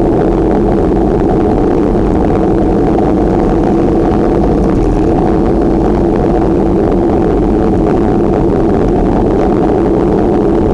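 Steady, loud rush of wind and road noise on the microphone while riding a bicycle, unchanging throughout.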